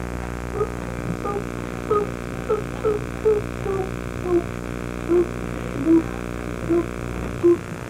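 Steady electrical mains hum on the recording, with its lowest part cutting off about seven and a half seconds in. A run of short, separate pitched notes sounds over it every half second or so.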